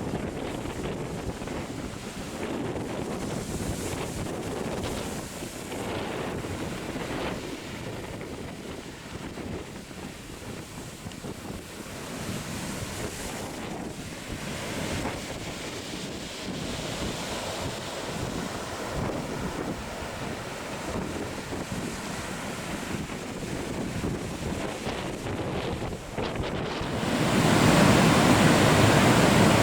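Ocean surf breaking, with wind buffeting the microphone. The noise swells much louder near the end.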